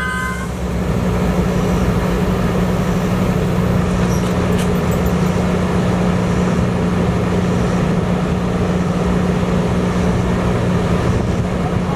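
Steady low hum and rumble of a stationary Virginia Railway Express bilevel commuter train idling at the platform, just after its brakes have stopped squealing.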